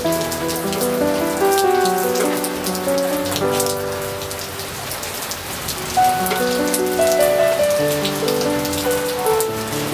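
Rain falling steadily, with many separate drops heard, and slow piano music playing over it.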